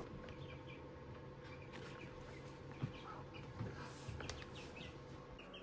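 Faint bird chirps repeating over a steady low hum, with a few soft clicks and taps about three to four seconds in.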